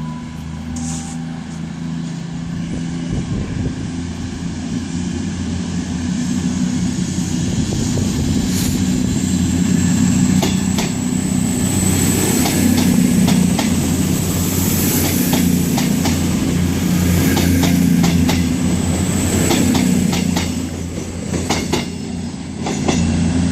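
Class 221 Super Voyager diesel-electric multiple unit pulling out of the station under power, its diesel engines running with a steady low drone that grows louder over the first ten seconds as the train moves past. Through the middle, its wheels click rapidly over rail joints and pointwork, with a thin high-pitched whine over the top.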